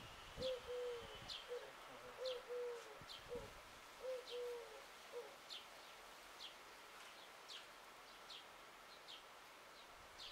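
Birds calling: low, soft cooing notes in a short series that stops about five seconds in, over short, high, falling chirps repeating roughly once or twice a second.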